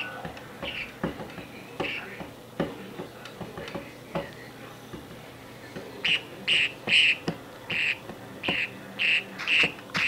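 Caged pet bird giving short, separate calls: a few faint ones in the first half, then a quick run of about eight louder calls in the last four seconds. Soft knocks and taps are heard underneath.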